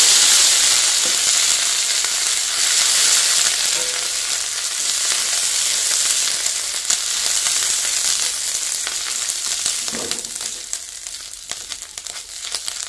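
Ginger paste and cumin seeds sizzling in hot oil in a steel kadai, stirred with a metal spatula. The sizzle is loudest at first and dies down over the last few seconds.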